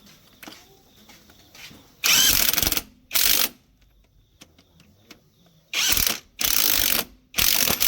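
Pneumatic impact wrench run in five short bursts of about half a second each, hammering on truck bolts or nuts.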